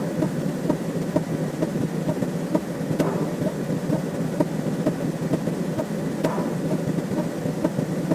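A dense, continuous rumbling noise from an added sound effect, thick with fast small ticks, with a sharper click about every three seconds.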